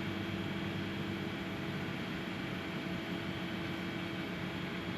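A motor or engine running steadily at a constant speed, with a low, even hum.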